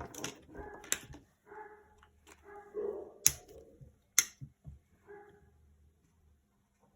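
A dog whining in several short pitched calls, with a few sharp taps in between.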